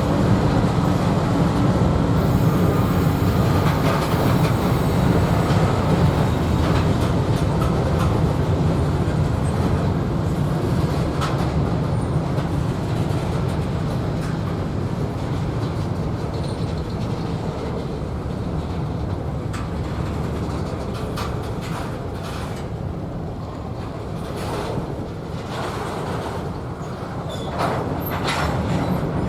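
A train rolling past: a steady rumble of wheels on rails that slowly fades, with scattered clicks in the second half.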